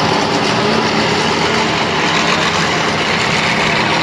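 A large vehicle engine idling steadily.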